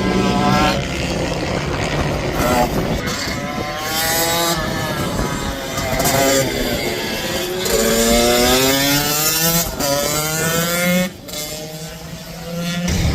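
Racing minibike engines revving hard, their high-pitched notes rising again and again as the bikes accelerate through the gears past the track. About eleven seconds in the sound drops away briefly, then builds up again.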